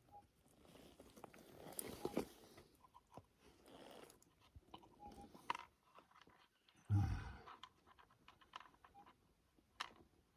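Soft crunching and scraping of dirt and gravel being handled, with scattered small clicks and a louder low thump about seven seconds in.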